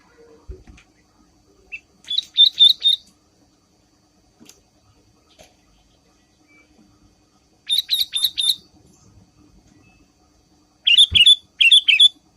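Sooty-headed bulbul (kutilang) giving its rapid chattering 'ngriwik' call. It comes in three short bursts of quick, repeated high notes: about two seconds in, about eight seconds in, and near the end.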